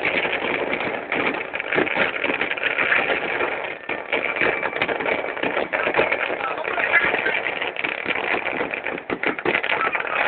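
Crowd chatter and shouting mixed with dense, rapid crackling from fireworks.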